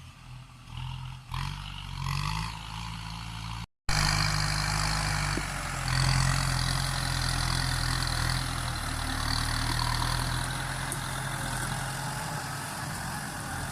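Kubota M9540 tractor's diesel engine running steadily, its low hum coming in louder after a short break about four seconds in.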